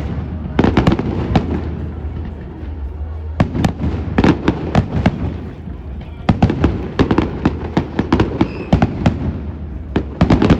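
Fireworks display: sharp bangs and crackling bursts come in clusters, a flurry about a second in, a dense run from about three and a half to five seconds, another long volley from about six to nine seconds, and more bangs near the end.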